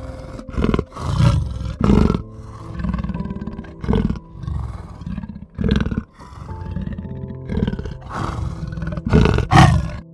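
A large animal calling over and over, loud low calls about once a second, over gentle background music.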